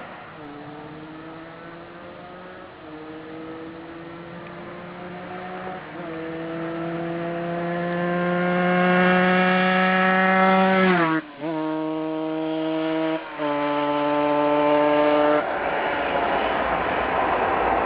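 A 2003 Aprilia RS 125's two-stroke single-cylinder engine accelerating through the gears as it approaches, its pitch climbing in each gear and stepping down at each upshift, getting steadily louder. Two brief cut-outs come in quick succession about two-thirds of the way through, and near the end the engine note gives way to a loud rushing noise.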